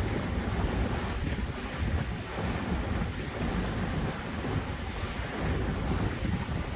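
Wind buffeting the microphone on a moving boat, a steady low rumbling noise with water washing beneath it.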